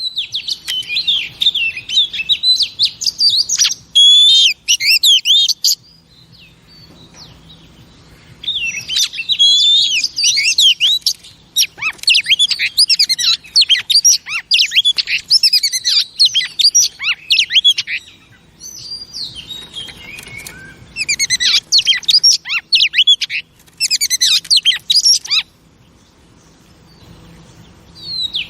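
Female Oriental magpie-robin singing: rapid, varied chattering and whistled phrases of quick rising and falling notes, in three long bouts with short pauses between them.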